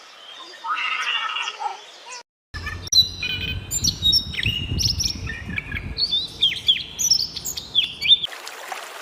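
Birds calling: a string of sharp chirps and quick downward-sliding whistles, following an abrupt cut about two seconds in. Before the cut there is a short stretch of a different animal call.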